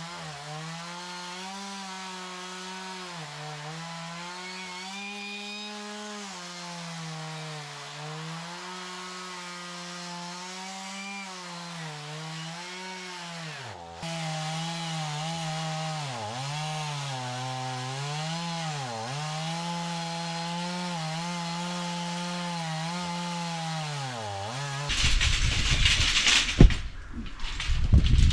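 Chainsaw cutting through an oak round, its engine note holding high and dipping briefly every second or two as the chain bogs in the wood, with a short break partway through. Near the end the saw gives way to loud, irregular knocking noise.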